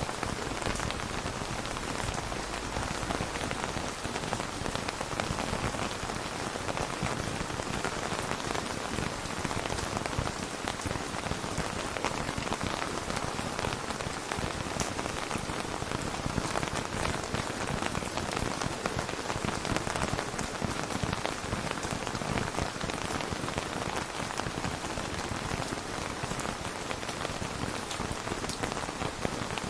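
Steady rain falling, an even, dense patter of drops with no thunder.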